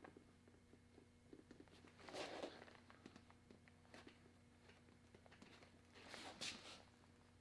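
Near silence: a faint steady hum with scattered light ticks, and two brief soft rubbing sounds about two seconds in and again near the end.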